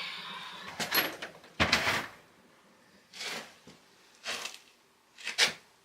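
Rummaging at a workbench while hunting for a bolt: a handful of separate knocks and clatters of drawers and hardware being moved, the loudest about one and a half seconds in. A faint steady hum fades out in the first second or so.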